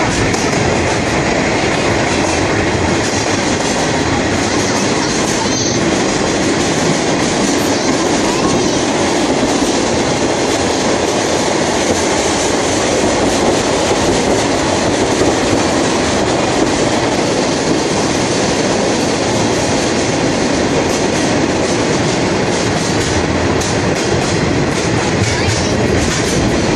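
Sagano scenic railway passenger train running through a tunnel, heard from inside the carriage: a loud, steady noise of the wheels on the rails and the rattle of the cars.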